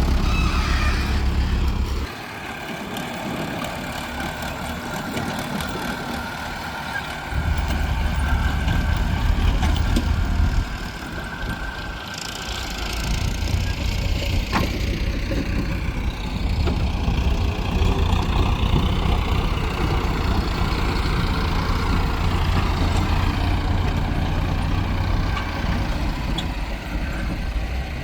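Heavy diesel machinery running at a loading site, an excavator and tractors at work. The low engine rumble drops back about two seconds in, surges up again around seven seconds, falls off near eleven seconds, then rises and holds from about thirteen seconds on.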